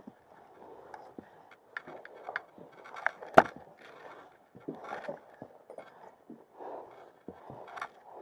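Irregular scrapes and knocks of boots and gear while climbing a steep ladder section of a mountain trail, with one sharp, louder knock about three and a half seconds in.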